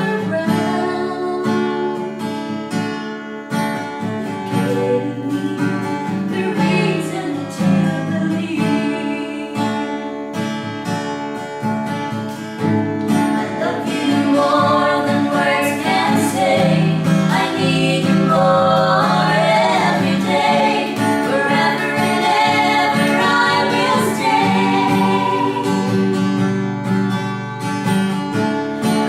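Song performed with acoustic guitar accompaniment and singing voices.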